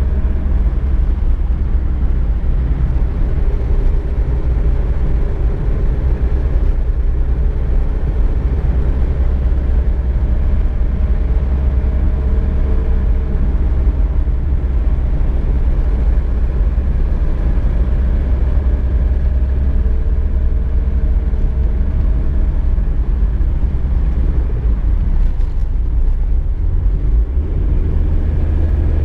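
Inside a VW Golf Mk2 cabin while driving: a steady low rumble of road and engine, with the engine's hum drifting slightly in pitch.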